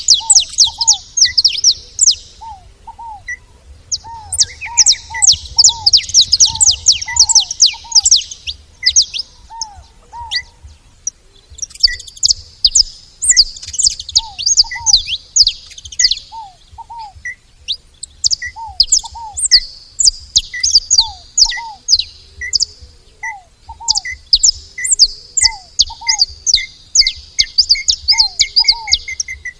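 Saffron finches chirping in bouts of rapid high notes, with pauses between bouts. Underneath, short lower whistled notes, often in pairs, repeat about once a second.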